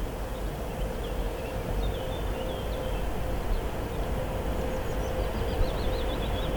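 Freight train running along the track: a steady rumble with a faint constant hum, growing slightly louder as it comes on. Small birds chirp high above it now and then.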